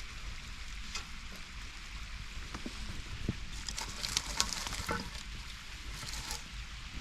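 Steady hiss of rain falling, with scattered sharp crackles and clicks that grow busier about halfway through.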